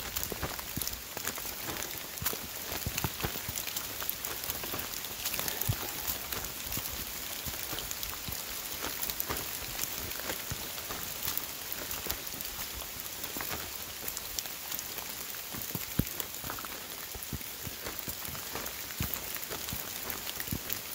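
Steady rain pattering, a dense, irregular run of small drop taps with a few louder ones.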